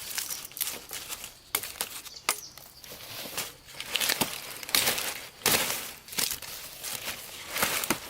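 Dry leaves and plant stalks rustling and crackling in irregular bursts as they are handled, with a few sharp clicks.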